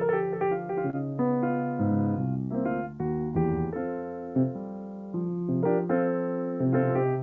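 Solo piano playing: a slow melody over sustained chords, with notes struck and left to ring.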